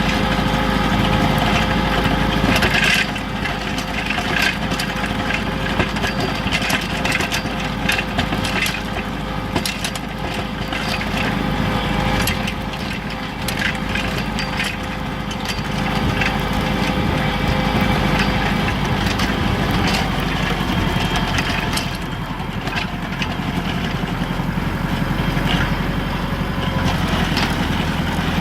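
Kubota L3600 compact tractor's diesel engine running steadily while plowing snow with a rear blade, with scattered clicks and knocks throughout.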